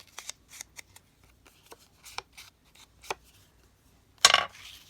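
Paper and card craft pieces being handled on a table: a scatter of light rustles and small clicks, then one loud, brief rustling knock about four seconds in.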